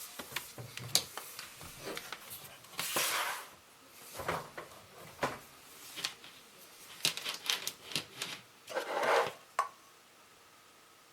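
Hard objects being handled: an irregular string of clicks and knocks, with two longer scraping rubs, one about three seconds in and one near nine seconds.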